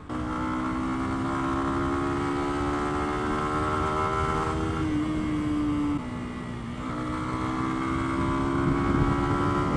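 Lexmoto Venom 125's single-cylinder 125 cc engine pulling hard under acceleration, its note rising slowly. About six seconds in it dips with a gear change, then climbs again, over a low rumble of wind and road.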